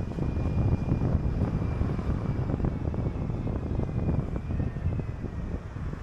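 City bus driving along the road, heard from on board: a steady low engine and road rumble with frequent small rattles and knocks.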